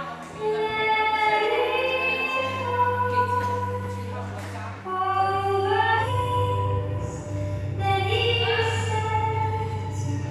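Music with a choir of voices singing long held notes that slide up between phrases, over a steady low bass drone.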